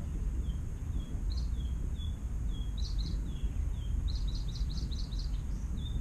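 Small birds calling: a short falling note repeated about twice a second, with quick runs of higher chirps near the middle, over a steady low rumble.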